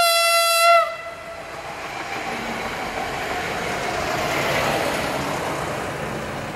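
Single-car diesel passenger railcar sounding one short horn blast of under a second, one steady note that sags slightly in pitch as it stops, then running past close by, its rolling noise swelling to a peak about four to five seconds in and easing off.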